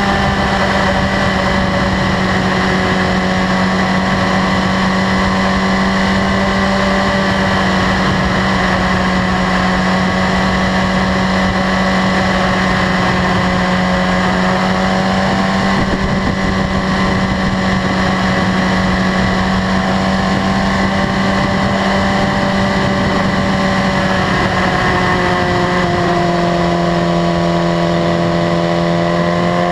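2015 BMW S1000RR's inline-four engine running at a steady cruising speed, heard from on board with wind and road noise. Near the end the engine note drops a little, then climbs again as the throttle comes back on.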